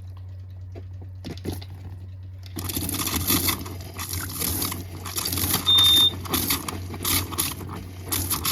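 The camper's 12-volt water pump keeps up a steady low hum. From about two and a half seconds in, rough rustling and crackling handling noise comes over it, and a short high beep sounds about six seconds in.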